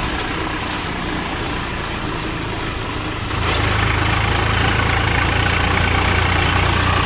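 Swaraj 744 FE tractor's three-cylinder diesel engine running steadily while pulling a loaded trolley. About three and a half seconds in it grows louder, with a stronger low hum, and stays that way.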